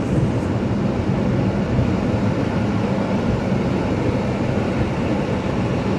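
Steady cabin noise of a vehicle driving through deep floodwater: a constant low engine and road rumble with a wash of noise, no distinct events.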